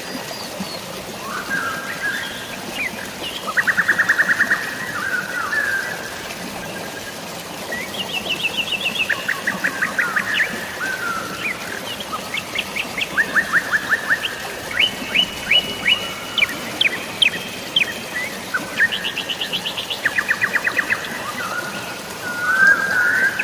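Songbirds chirping in rapid trills, one quick run of notes after another at several pitches, over a steady hiss of falling rain and water.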